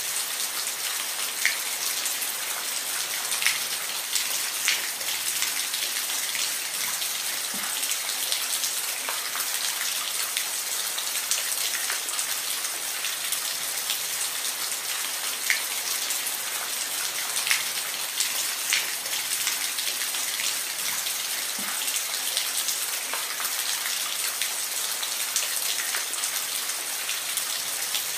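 Steady rain falling, an even hiss with scattered louder drops ticking close by.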